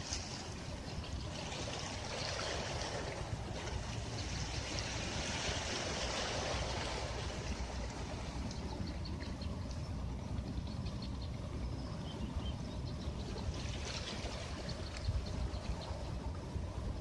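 Ocean waves washing onto a beach: a wave swells and hisses up the shore from about two seconds in until about seven seconds, and another comes in near the end, over a steady low rumble of surf.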